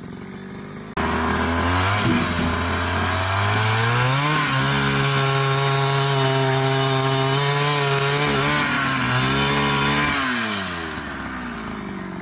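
Two-stroke chainsaw revving up, held at full throttle for about six seconds with two brief dips in pitch, then dropping back toward idle near the end. It comes in loud and abruptly about a second in.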